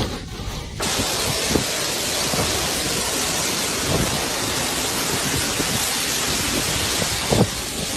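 Heavy rain falling in a dense, steady hiss that starts abruptly about a second in, with a few brief low thumps under it.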